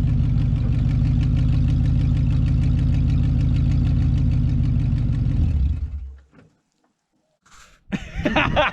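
A truck engine running steadily and loud, with an even pulsing rumble, then dying away about six seconds in. A man's voice starts near the end.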